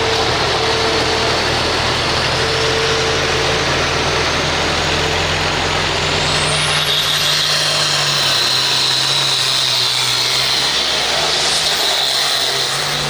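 Turbocharged diesel pulling tractor running hard, a steady engine drone with a high turbo whine that climbs sharply about halfway through.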